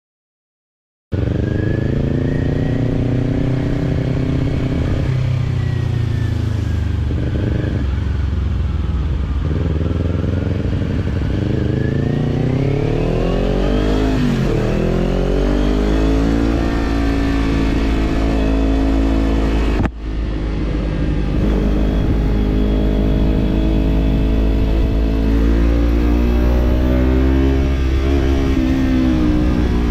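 Kawasaki parallel-twin motorcycle engine through a slip-on exhaust, heard while riding. It starts about a second in, and its pitch rises and falls with throttle and gear changes, with a sharp drop and climb partway through. The sound cuts out for an instant near the two-thirds point.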